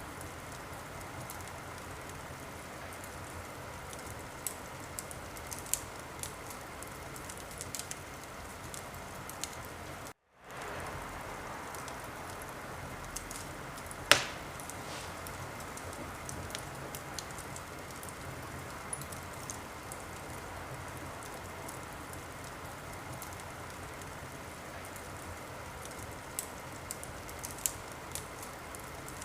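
Wood fire burning in a fireplace: a steady hiss with scattered small crackles and one loud pop about fourteen seconds in. The sound cuts out for a moment about ten seconds in.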